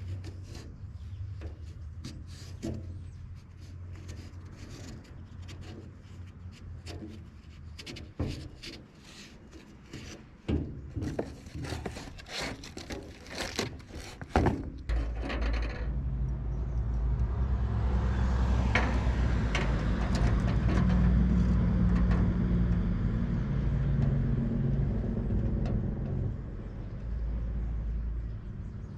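Irregular scraping strokes on the steel fuel tank as surface rust is cleaned off around the sending-unit opening. About halfway through, a steady low mechanical drone takes over and grows louder, easing off near the end.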